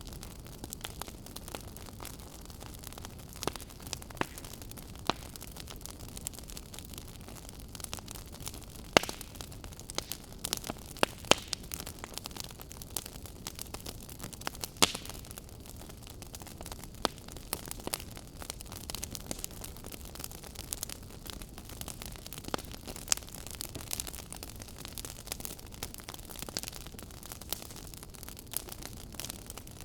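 Crackling fire: a steady low hiss and rumble with frequent, irregular sharp pops and snaps, a few of them much louder than the rest.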